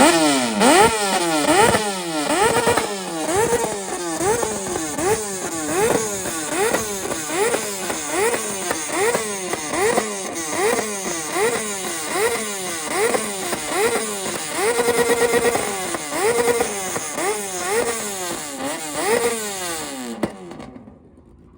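Kawasaki Ninja ZX-6R's inline-four engine being revved hard over and over, the throttle blipped about once every three-quarters of a second so the pitch shoots up and drops back each time. It holds one rev briefly about three-quarters of the way through, then falls quiet just before the end.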